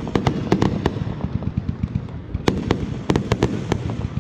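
Fireworks crackling: many sharp cracks and pops in quick succession over a steady low rumble, in two clusters, in the first second and again from about two and a half seconds in.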